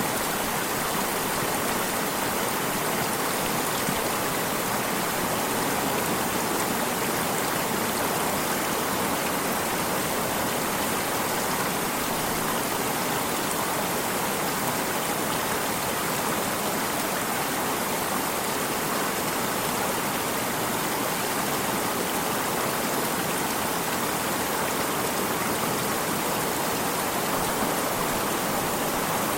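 A flowing stream, its water rushing and splashing over rocks in an even, unbroken hiss.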